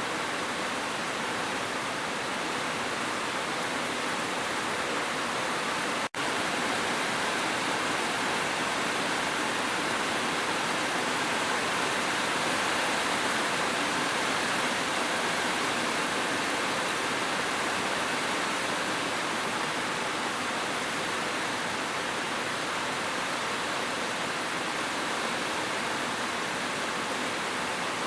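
Steady, even hiss of rain. It cuts out for an instant about six seconds in.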